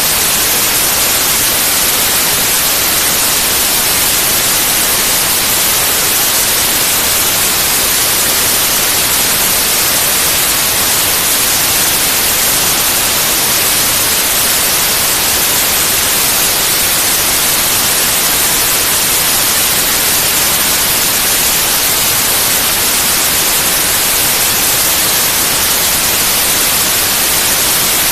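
Steady, loud white noise: an even, unchanging hiss across the whole range, brightest in the high frequencies.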